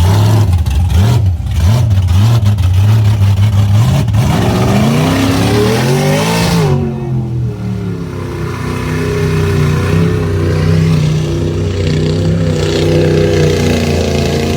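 Off-road vehicle engine revving in mud, its pitch climbing from about four to six and a half seconds in. After an abrupt change it runs at a steady, even pitch.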